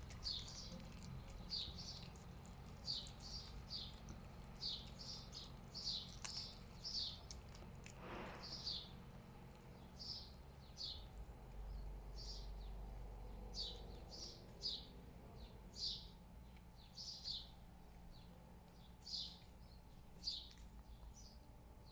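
A small bird chirping over and over, in short high notes about one or two a second, over a steady low background rumble.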